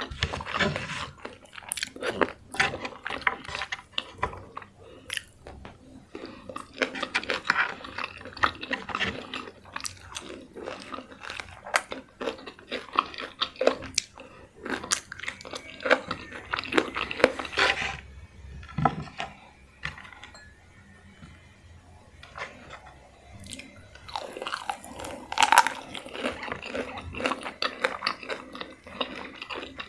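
Close-miked eating: a person biting into and chewing crispy fried chicken, with crackling crunches and wet chewing. It goes quieter for a few seconds past the middle, then there is a loud crunch.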